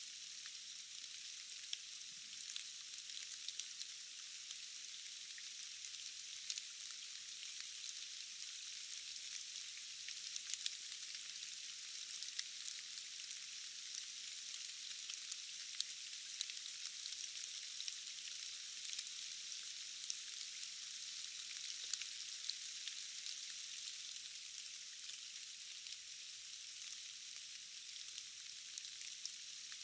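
Steady rain falling in a forest, a dense, even hiss of drops with scattered sharper drop ticks. The sound is thin and hissy, with no low rumble at all.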